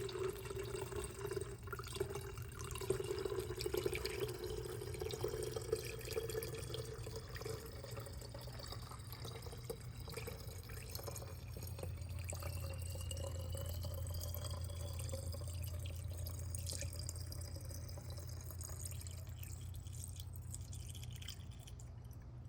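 Isopropyl alcohol being poured from a parts bath back into a bottle, running and dripping, with a faint rising tone through the middle.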